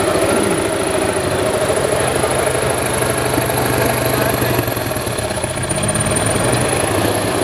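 Sonalika DI 750 tractor's diesel engine running steadily, with a thin high whine above it. The level dips slightly about five seconds in.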